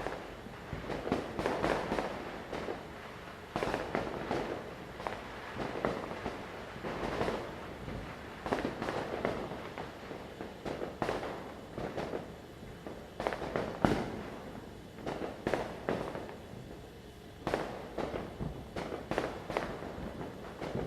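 Firecrackers going off in quick crackling clusters with sharp single bangs between them, the sharpest crack about two thirds of the way through.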